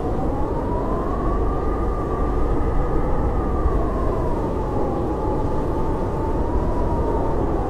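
Blizzard wind howling steadily, its whistling pitch rising about two seconds in and sinking again toward the end, over a low rumbling rush.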